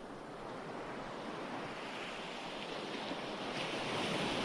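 Ocean surf washing in, a wave swelling steadily louder.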